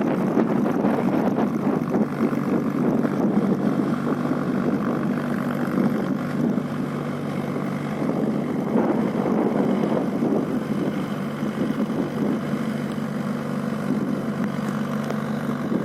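Mahindra tractor's diesel engine running at a steady speed, its low drone holding an even pitch throughout.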